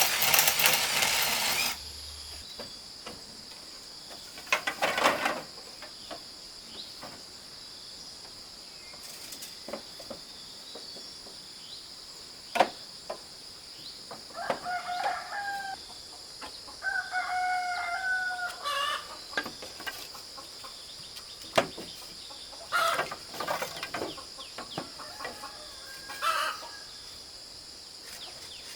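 A rooster crowing twice in the middle stretch, with some clucking and a few sharp knocks, over a steady high-pitched drone. A loud noisy sound cuts off about two seconds in.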